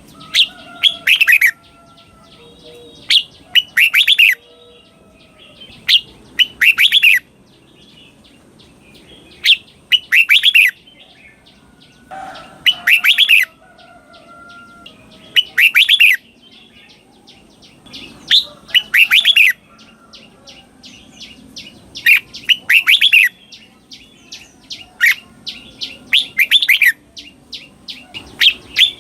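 Red-whiskered bulbul singing its doubled song: short, clear whistled phrases repeated about every three seconds.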